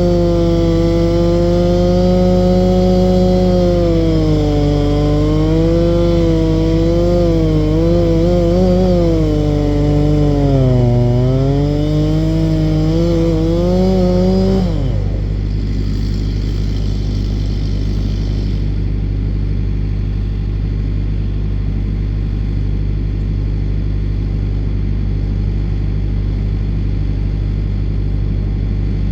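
Two-stroke chainsaw running at high revs under load, its pitch rising and dipping as it cuts. About halfway through it winds down and stops, leaving a steady low engine rumble.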